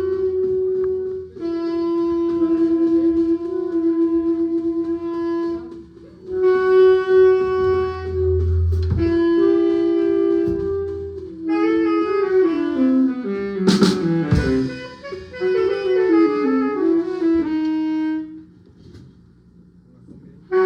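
Saxophone warming up during a band sound check: three long held notes with short breaks between them, then about halfway through a stretch of quick runs up and down the scale. A single sharp knock cuts in during the runs.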